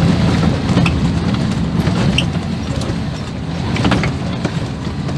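1980 Land Rover Series III engine running under load as it drives up a grassy 4x4 track, with a few sharp knocks and rattles from the vehicle over the rough ground.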